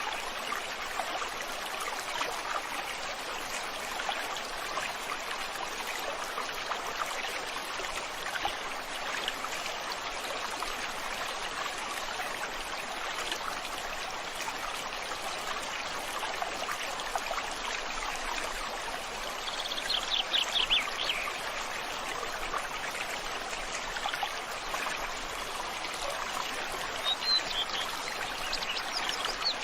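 A river flowing steadily, with a quick run of bird chirps about two-thirds of the way through and a brief chirp near the end.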